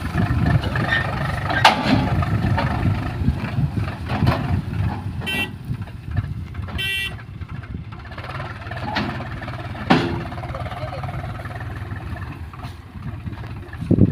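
Diesel engine of a JCB 3DX backhoe loader running under work, with a few sharp knocks. Two short horn beeps sound about five and seven seconds in.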